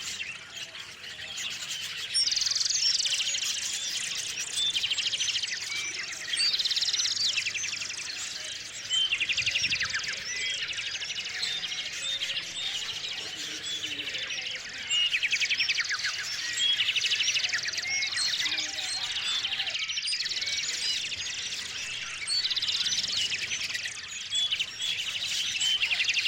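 Small songbirds chirping continuously, with a rapid trilled song of quick repeated notes recurring every few seconds, about eight times.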